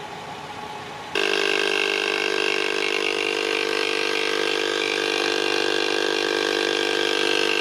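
Yokaro portable tire-inflator air compressor switching on about a second in and running steadily as it pumps a car tire toward a preset 35 psi.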